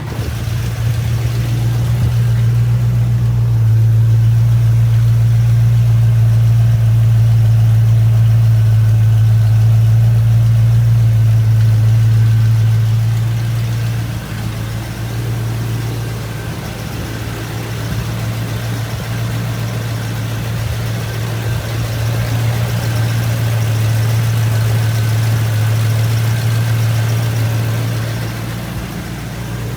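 1994 Land Rover Defender 90's 3.9-litre Rover V8 idling steadily shortly after a cold start. It runs slightly louder for the first dozen seconds, then settles a little lower.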